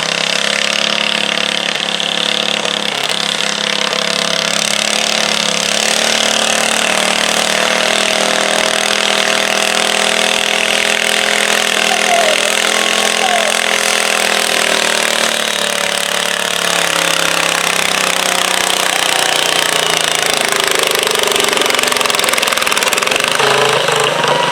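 Stock garden tractor's engine running hard and steady under load, as when pulling a weight sled; its pitch dips a little about two-thirds of the way through.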